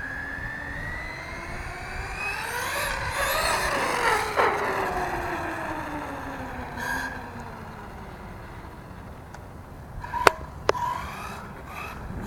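Electric whine of a 1/8-scale RC truck's brushless motor and drivetrain on a Castle Mamba X ESC. It rises in pitch as the truck speeds up for about four seconds, then falls away as it slows. Two sharp knocks come about ten seconds in.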